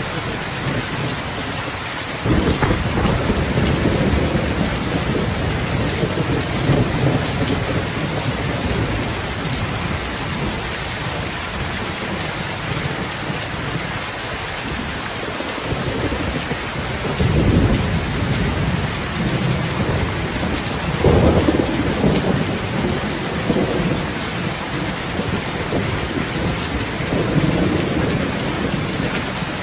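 Heavy rain falling steadily, with rolling thunder rumbles that break in suddenly about two seconds in and swell again several times later.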